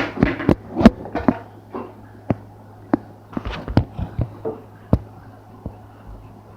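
A series of irregular sharp knocks and taps, about eight spread over several seconds, over a steady low hum, with faint voices in the first second or so.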